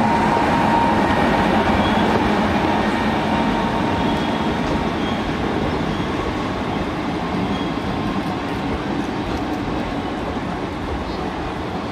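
Trains passing close at speed on neighbouring tracks, a freight train of covered wagons and an electric-hauled express of passenger coaches: a steady rumble and clatter of wheels on rails that slowly grows quieter, with a faint thin squeal in the first couple of seconds.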